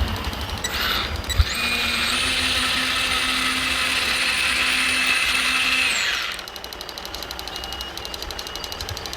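Hydraulic pump motor of an RC construction model whining for about five seconds, swelling in at the start and falling away at the end. Afterwards, a quieter, fast, even ticking.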